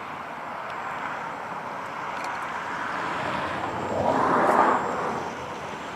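Radio-controlled model airplane flying past. Its engine and propeller noise swells to a peak about four and a half seconds in, then fades.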